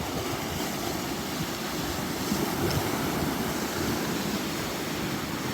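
Small lake waves washing steadily on the shore, a continuous rushing wash with some wind.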